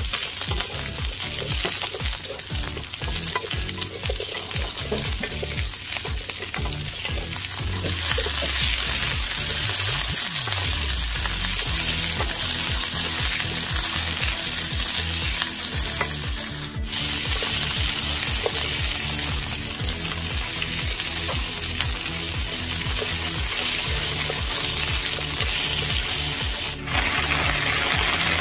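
Bok choy sizzling as it is stir-fried in a hot nonstick pan, a plastic spatula stirring and turning the pieces. The sizzle gets louder about eight seconds in.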